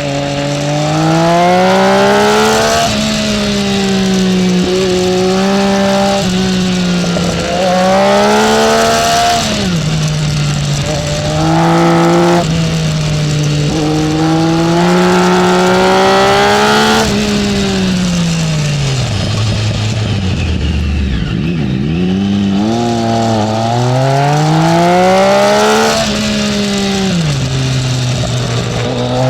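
Triumph Speed Triple's inline-three engine heard on board, revving hard and climbing in pitch, then dropping abruptly at each upshift or roll-off. About two-thirds through, the revs fall away to a low rumble before it pulls hard again, over a steady rush of wind.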